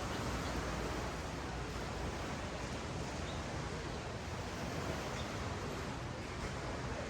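Ocean waves washing up and down a sand beach: a steady, even wash of surf.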